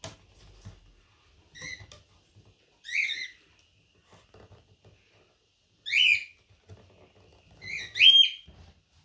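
A bird chirping: about five short, high chirps a second or more apart, the loudest pair near the end, over faint rustling from hands working with string and wood.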